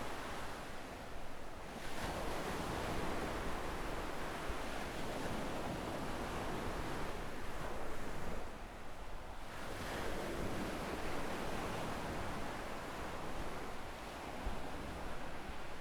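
Small ocean waves breaking and washing up on a sandy shore, the surf swelling and easing in turns, with a brief lull just past the middle, and some wind on the microphone.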